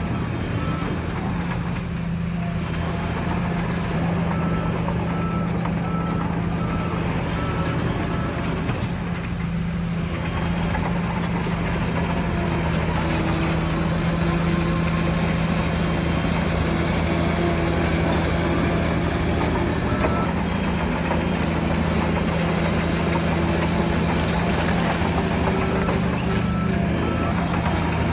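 Heavy diesel earthmoving machinery running steadily with a deep engine drone. A reversing alarm beeps on and off in several spells.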